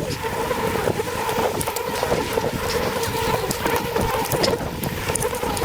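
A honeybee colony buzzing, a steady drone held at one low pitch and its overtone, with scattered light clicks.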